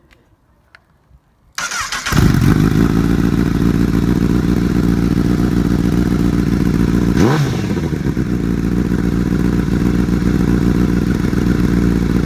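Honda CBR1000RR inline-four motorcycle engine cranked by the starter and firing up about a second and a half in, then idling steadily. It is revved once briefly about halfway through, the pitch rising and falling, before settling back to idle.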